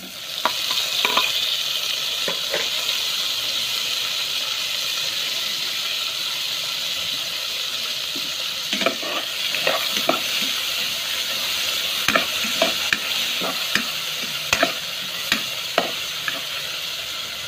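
Sliced tomatoes hitting hot oil in a stainless steel pot and sizzling steadily as they sauté with onion, garlic and ginger. From about halfway, a metal spoon stirs them, clicking and scraping against the pot.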